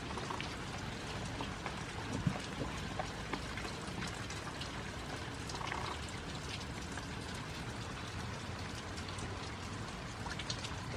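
Steady rain falling, with scattered ticks of individual drops hitting nearby surfaces.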